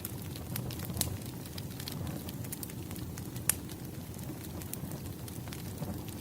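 Wood fire burning, with a steady low rumble and frequent sharp, irregular crackles and pops from the logs; the loudest pop comes about three and a half seconds in.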